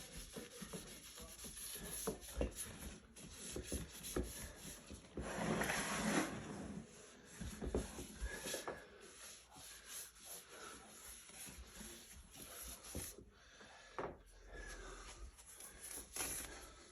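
Cerakote Trim Coat wipe being rubbed over the plastic shell of a Shad motorcycle case: irregular rubbing strokes with small knocks, and one longer, louder rub about five seconds in.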